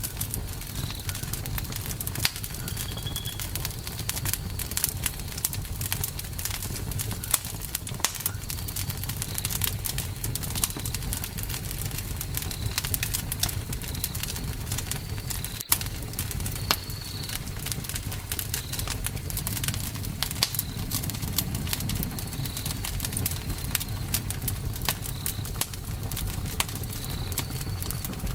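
Campfire crackling, with dense irregular pops and snaps over a low steady rumble. Short high bird chirps come in every few seconds.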